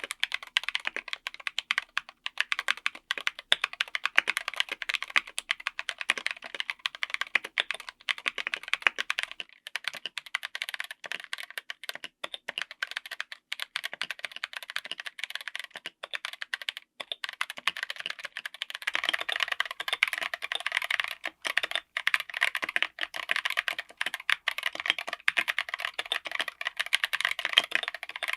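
Continuous typing on a mechanical keyboard fitted with tactile switches: a dense, fast run of keystroke clicks with a few brief pauses.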